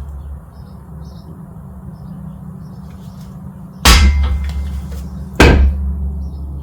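Two hard hammer blows on metal, about a second and a half apart, each with a short ring, while driving at a stuck control arm bushing. A steady low hum runs underneath.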